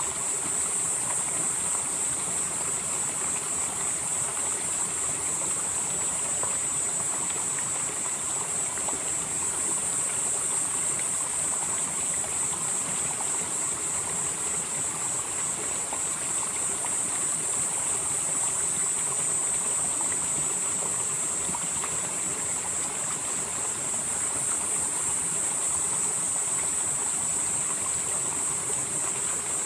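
Valley stream flowing steadily over rocks. Over it runs a loud, steady high-pitched buzz, with a higher layer that swells and fades about every seven or eight seconds.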